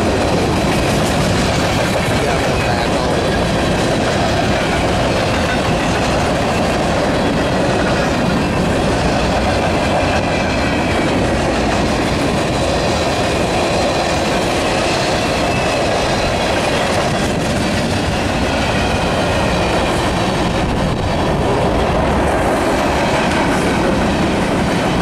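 Freight cars of a mixed manifest train (covered hoppers and tank cars) rolling past close by: the steady, unbroken noise of steel wheels on rail.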